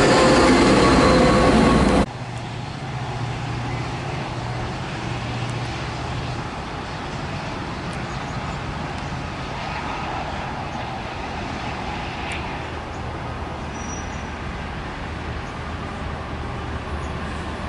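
A Metra commuter train runs loudly past close by until a sudden cut about two seconds in. Then comes a quieter, steady low rumble of diesel trains approaching from a distance: a BNSF freight led by GE ES44C4 locomotives, and an inbound Metra push-pull train.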